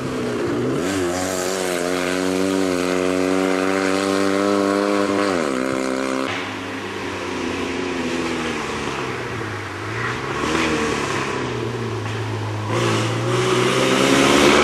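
Fiat 126p rally cars' air-cooled two-cylinder engines revving hard. One holds high revs, then drops sharply about five seconds in. After a cut, another falls, then climbs in pitch as it accelerates, rising again near the end.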